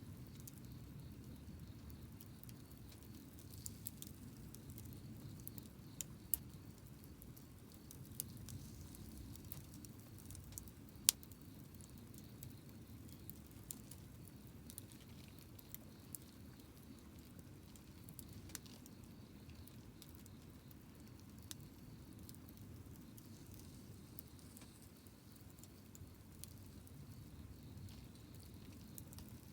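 Wood campfire crackling: scattered sharp pops and snaps over a low steady rumble, the loudest pop about eleven seconds in.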